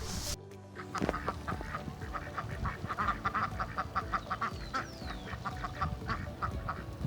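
Ducks quacking: a rapid, continuous series of short quacks, several a second, starting about half a second in.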